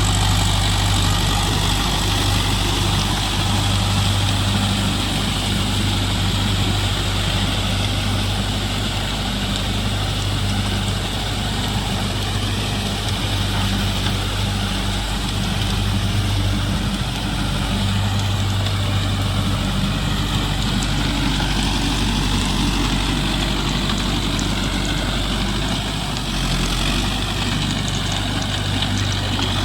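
Mahindra Yuvo Tech+ 585 DI tractor's diesel engine running steadily, a constant low hum.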